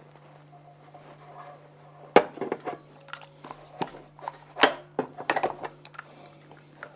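Hard knocks and clatter of metal fittings and tools being handled during plumbing work, in a scattered run of sharp clicks over a few seconds, over a steady low hum.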